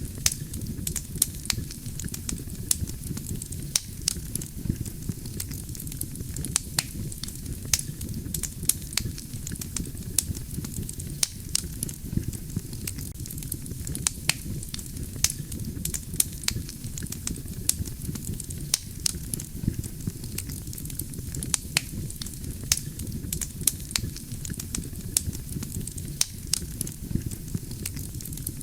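Wood campfire burning, with frequent sharp, irregular crackles and pops from the burning logs over a steady low rumble of the flames.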